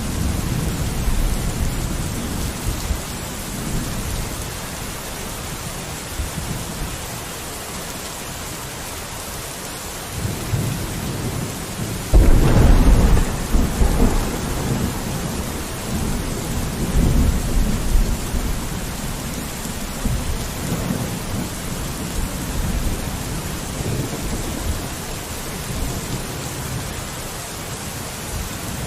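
Steady rain falling on a window, with low rolling thunder rumbling through it. About twelve seconds in, a louder thunderclap breaks in suddenly and rumbles away over several seconds.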